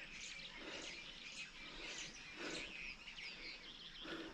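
Wild birds chirping and calling, many short high chirps and quick whistled notes overlapping, with a few soft rustles lower down.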